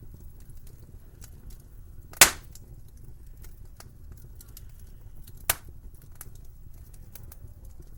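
Wood fire crackling in a fireplace, with small crackles throughout and two loud sharp pops, one about two seconds in and a softer one about five and a half seconds in, over a low steady rumble.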